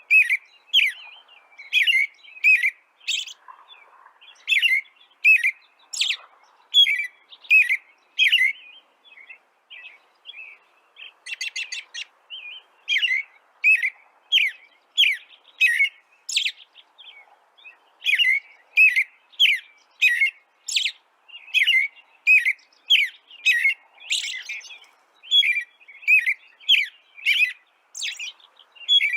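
Songbirds chirping: a steady run of short, sharp chirps, about two a second, with a brief rapid trill about eleven seconds in.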